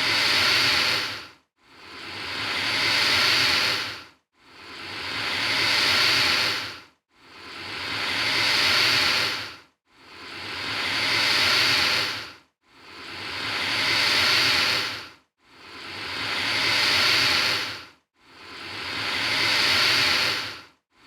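Alligator hissing: long breathy hisses, one about every three seconds, each swelling up and then cutting off sharply, repeated over and over, all alike.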